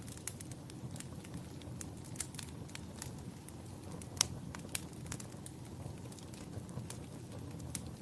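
Wood fire crackling in a fireplace: irregular sharp pops and snaps, the loudest about four seconds in, over a steady low rumble.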